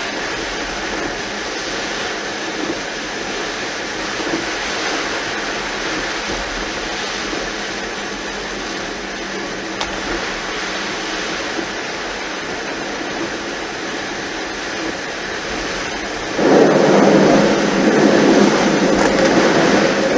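Steady rush of typhoon rain and vehicle noise on a flooded road. About 16 seconds in, a much louder, lower rushing starts suddenly and keeps on, as of tyres throwing up floodwater.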